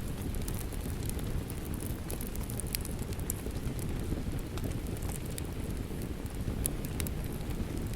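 Steady rain with a wood fire crackling over it, a scatter of sharp pops and snaps from the burning logs.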